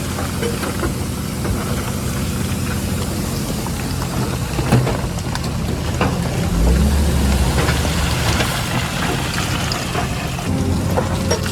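Diesel engine of heavy earthmoving machinery running steadily. About six and a half seconds in it gets deeper and louder for a second or so, and there are a few short clanks.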